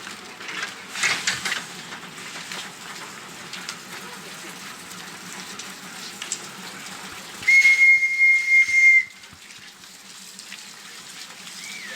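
One steady, high-pitched whistle blast lasting about a second and a half, starting about seven and a half seconds in, with a short rising-and-falling whistle near the end. Under it runs the steady rumble and wind noise of the moving train.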